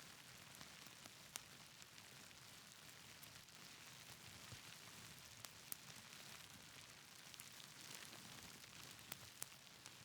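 Faint, even hiss of gentle rain with a wood fire crackling, its sharp pops coming singly about a second in, then in pairs near the middle and near the end.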